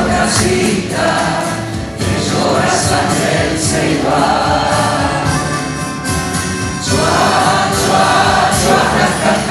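Live music: a group of voices singing together over instrumental accompaniment.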